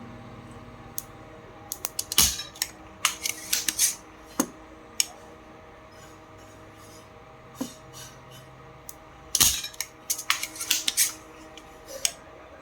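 Irregular sharp clicks and clatter, bunched in two flurries about two and nine seconds in with a few single ticks between, over a faint steady hum.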